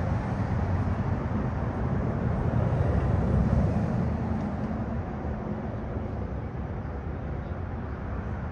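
Road vehicle passing by: a low rumble that swells about three to four seconds in and then fades away.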